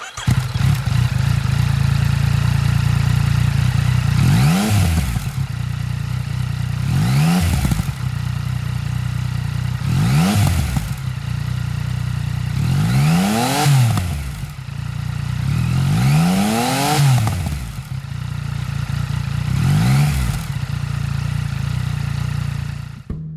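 Yamaha XSR900's three-cylinder engine idling through an Akrapovic S-Y9R3-HAFT aftermarket exhaust, blipped about six times, each rev rising and dropping back to a steady, deep idle.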